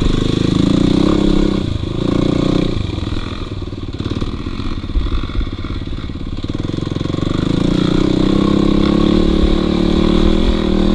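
Dirt bike engine running as it is ridden, the throttle changing with brief dips about two seconds in. It eases off through the middle, then comes back up and holds higher near the end.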